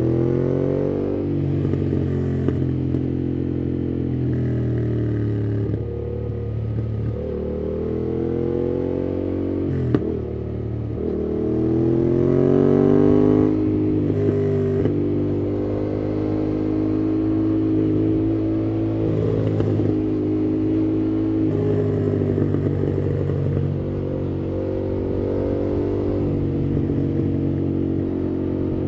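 2018 Yamaha MT-07's parallel-twin engine through a MIIV aftermarket exhaust with its dB killer fitted, under way: the pitch climbs as it accelerates, then drops at each gear change, several times over, with a single sharp click about ten seconds in.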